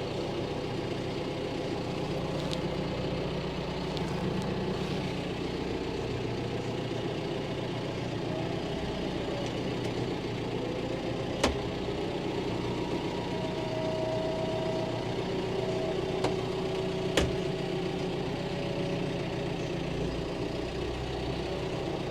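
Farm tractor engine running steadily, with a faint whine that rises and falls at times and two sharp clanks, about eleven and seventeen seconds in.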